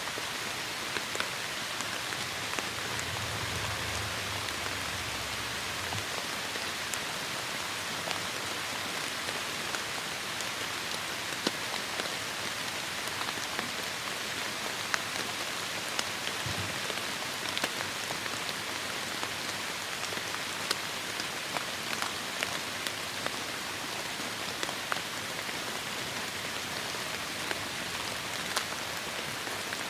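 Heavy rain falling steadily, with many separate drops ticking sharply on a surface. A soft low rumble comes in about three seconds in and fades a few seconds later.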